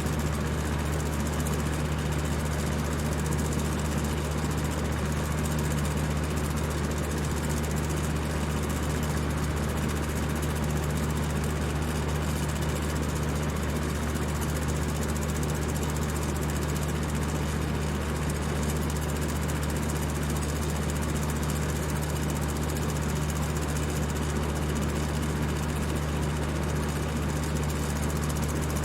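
High-speed electric fan running steadily: a constant rush of air over a low motor hum that never changes.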